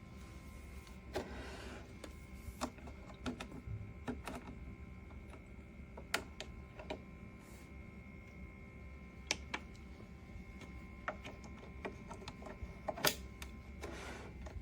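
Scattered light clicks and knocks from objects being handled, with a short rustle about a second in and another near the end, over a faint steady hum.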